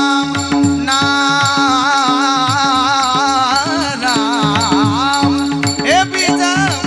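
Varkari kirtan singing: a solo voice holds and ornaments a long melismatic melody line with vibrato, no clear words. It is backed by a steady held drone, repeated drum strokes and the jingle of small hand cymbals.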